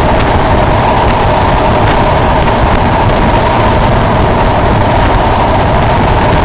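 Passenger train running at speed without stopping, heard from an open coach doorway: a loud, steady noise of wheels on rail mixed with rushing air.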